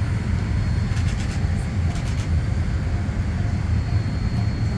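Steady low cabin rumble inside a Boeing 787-9 airliner, with a few faint clicks about one and two seconds in.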